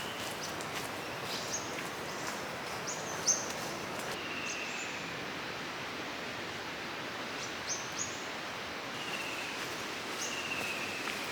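Forest ambience: a steady hiss of background noise with scattered bird calls, made up of short high chirps and several longer whistled notes that fall slightly in pitch. One brief tap comes about three seconds in.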